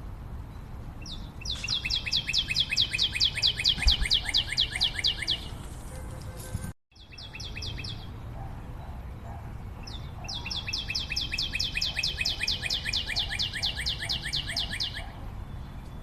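A songbird singing a rapid, high trill of evenly repeated notes, about four seconds long, twice, with a short snatch of trill between.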